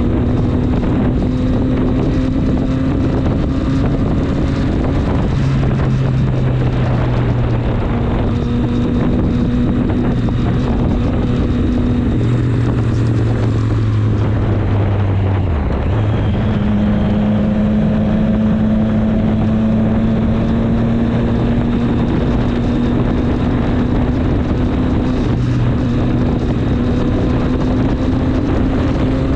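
Triumph Street Triple 765 RS's inline three-cylinder engine running under way, its note climbing slowly, dipping about halfway through, then climbing again, with wind rushing over the microphone.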